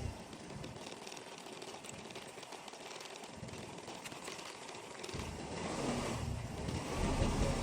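Tank 200 motor scooter on the move: for the first five seconds mostly a steady rushing with the engine barely heard, then about five seconds in the engine comes back in and revs up.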